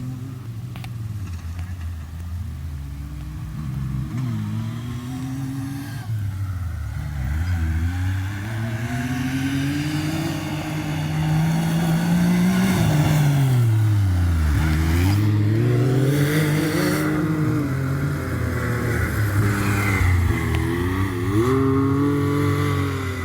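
Side-by-side UTV engine under load, its pitch repeatedly rising as it accelerates and falling as the throttle comes off. It runs loudest through the middle, with a long drop in pitch followed by a fast climb back up, then several quick up-and-down revs near the end.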